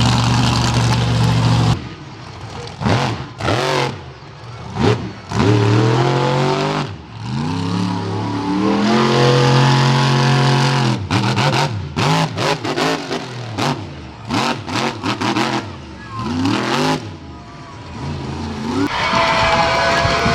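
Monster truck engine revving hard in repeated throttle stabs during a freestyle run, the pitch climbing and falling with each one and cutting off abruptly between them. A quick run of sharp cracks comes about halfway through.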